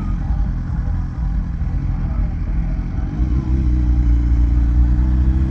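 BMW S1000RR sport bike's inline-four engine running steadily at low speed, its pitch rising a little about three seconds in and then holding.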